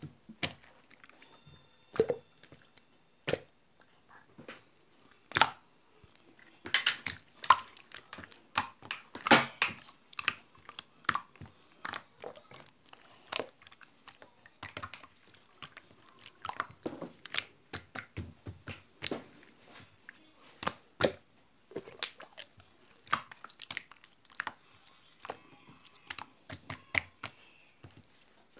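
Slime being squeezed and poked by hand, making irregular sticky clicks and pops with short quiet gaps between them.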